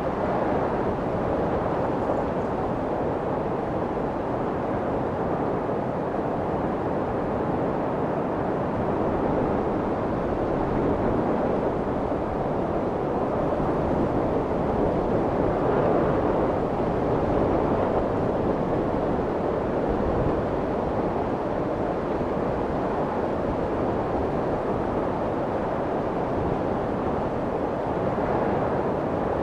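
Steady white noise for soothing a baby, meant to imitate the sound of the womb. It is a muffled, even rushing, heavy in the middle and low range with little high hiss.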